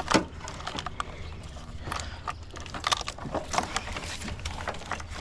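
Irregular clicks and rustles of a truck's wiring harness being handled and pulled free, plastic connectors and looms knocking, over a steady low hum.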